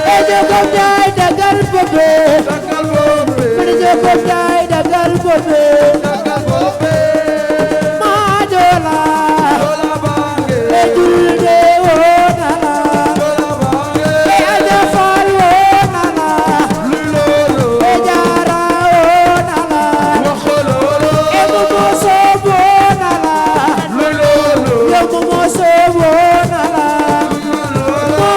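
Live Senegalese assiko band music: a melodic vocal line over dense hand-drum percussion, playing without a break.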